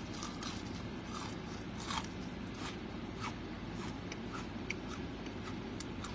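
Someone biting into and chewing a crispy battered onion ring, a run of crisp crunches about two a second, over a steady low hum.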